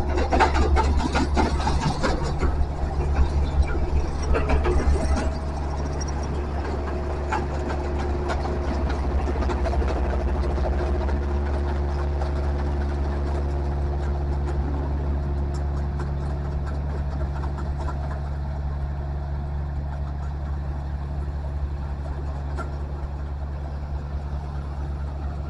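Heavy-equipment diesel engine running with a steady low drone. It is louder, with clattering, for the first five seconds or so, then settles to an even run.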